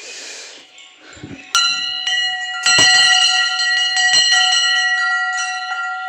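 Hanging temple bell (ghanti) struck repeatedly, starting about a second and a half in. Several clangs follow one another and leave a steady, bright, multi-toned ring that carries on.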